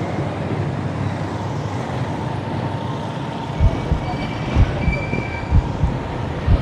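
Steady wind and road noise on a bicycle-mounted or rider-worn microphone during an uphill ride. From about three and a half seconds in, low thumps repeat roughly every half-second to a second.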